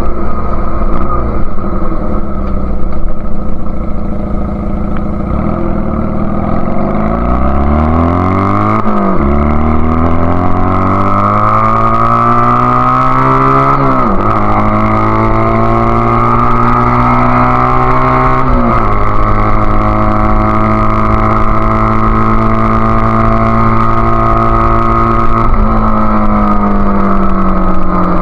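Honda Rebel CA125 motorcycle engine through its aftermarket BSM/Highway Hawk exhaust, accelerating on the road. The pitch climbs and drops sharply at two gear changes, then settles to a steady cruise.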